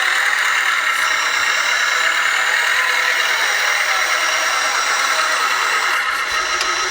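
Small 1/14-scale RC construction machines running: a steady mechanical hum with no deep bass, unchanging throughout.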